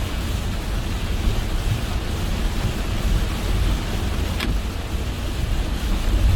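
Car driving in heavy rain: steady rain and wet-road tyre noise over a deep low rumble, with a brief high squeak about four seconds in.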